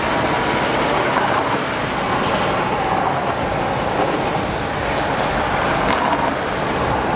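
Steady background traffic noise, an even hum of vehicles without distinct knocks or bangs.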